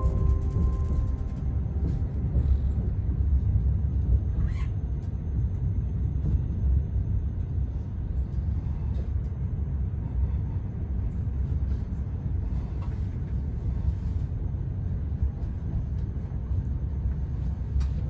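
Steady low rumble of a Pendolino high-speed train running, heard inside the passenger car. There is a brief higher-pitched squeak about four and a half seconds in.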